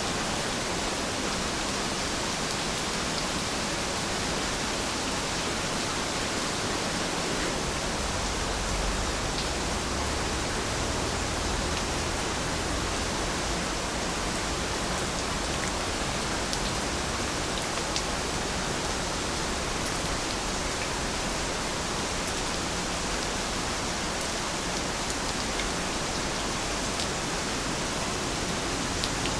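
Heavy rain falling steadily: an even hiss with scattered faint drop ticks. A low rumble swells for a few seconds about eight seconds in.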